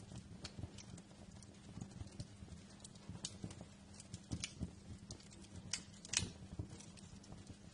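Wood fire crackling in a fireplace: irregular small pops and snaps over a low steady rumble, with one louder pop a little after six seconds in.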